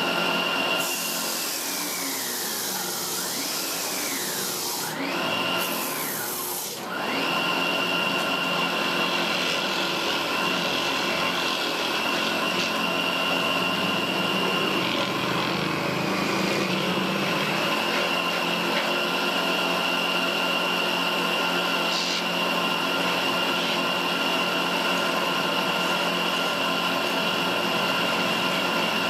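Electric woodworking power tool motor, its whine dipping sharply in pitch twice and recovering as it bites into wood with a loud cutting hiss, then spinning freely at a steady high pitch.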